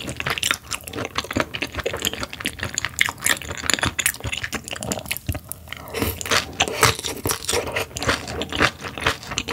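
Close-miked, crunchy chewing of seasoned raw sturgeon salad (sliced raw sturgeon mixed with vegetables in a spicy dressing), with many small sharp crunches.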